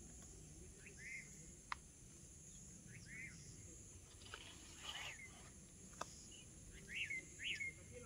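Faint bird chirps: short upward-curving calls, often in pairs, every second or two and strongest near the end. Two sharp clicks stand out, one early and one around the middle, over a steady high hiss and low background rumble.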